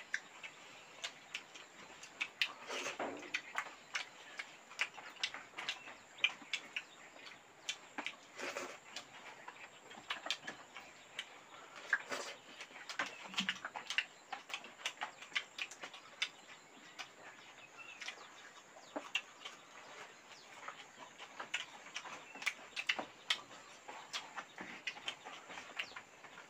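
Close-up eating sounds: irregular wet chewing and lip-smacking clicks, several a second, as two people eat rice with their hands.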